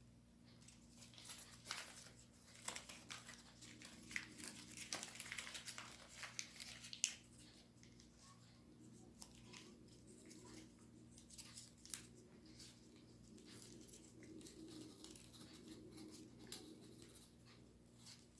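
Sheet of origami paper being folded and creased by hand: soft crinkling and rustling, busiest in the first seven seconds or so, then only a few faint taps and rustles.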